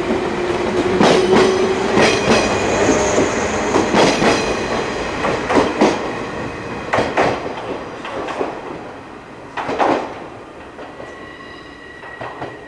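JR 183-series electric limited express train pulling away, its wheels clacking over rail joints at a steady pace while the motor hum rises slightly at first. The sound fades as the train recedes, with one last loud clack about ten seconds in.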